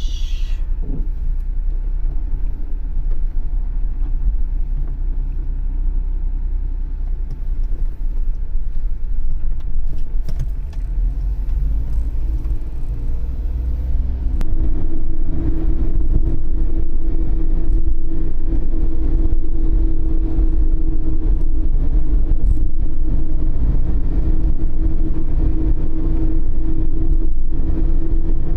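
Kei camper van's small engine running with road noise as it drives. About twelve seconds in the engine note rises, then it holds steady and louder.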